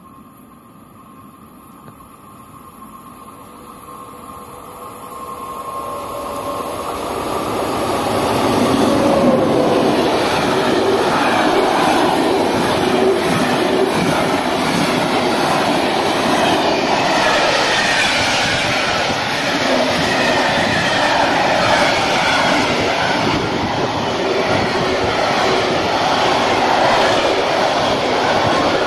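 Freight train approaching, growing steadily louder over the first nine seconds or so, then passing close by with the continuous noise of its wagons and wheels on the rails.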